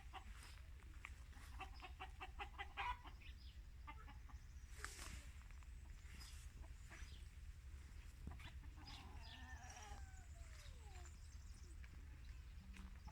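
Faint farmyard chickens: a hen clucking in a quick run of short notes, then a longer call falling in pitch, over a steady low rumble.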